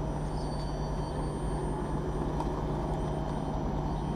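Steady rumble of a passenger train, with a constant low hum.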